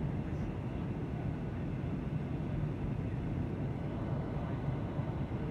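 Airliner cabin noise: the steady low rumble of the engines and the air rushing past the fuselage, with no change in pitch or level.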